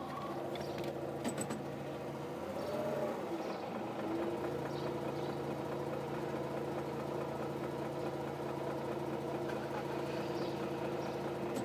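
Mazda RX-8's twin-rotor rotary engine idling steadily as the automatic is put into Drive, with a faint knock about a second in: the knock on gear engagement that the owner hears on both of his RX-8s.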